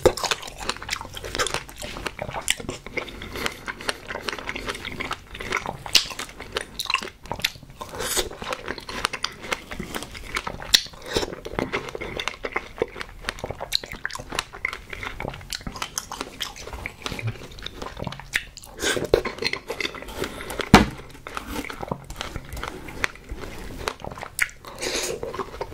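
Chewing and biting of strawberries with whipped cream, a steady run of small wet mouth clicks. One sharper knock comes about three-quarters of the way through.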